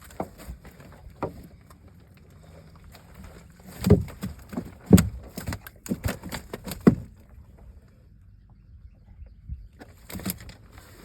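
Irregular knocks and thumps against a boat, with a cluster of loud blows about four to seven seconds in and a few softer ones near the end.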